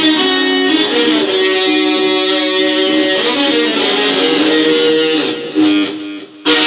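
Electric guitar playing a blues lead: long sustained notes with bends that glide the pitch up and down. Near the end the sound drops away briefly, then a sharp new note is struck.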